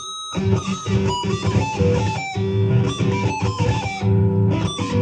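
Electric guitar playing a fast lead run high on the neck, a quick string of short picked and hammered notes with bends.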